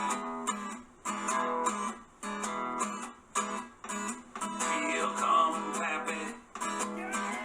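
Intro music: strummed guitar chords in a steady rhythm.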